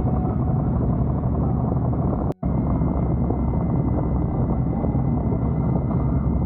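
Motorcycle engine running under way with a steady low rumble and wind rush on the camera's microphone. The sound cuts out completely for a moment about two seconds in.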